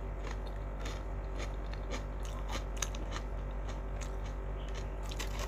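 A person chewing crunchy food close to the microphone: irregular crisp crunches and mouth clicks, about three or four a second, over a low steady hum.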